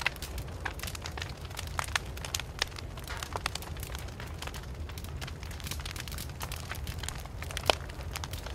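Wood fire burning: irregular crackles and pops over a steady low rumble, with one louder pop near the end.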